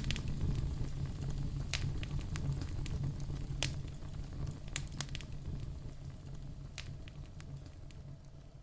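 Wood fire of burning logs crackling, with scattered sharp pops over a low steady rumble. The sound fades gradually towards the end.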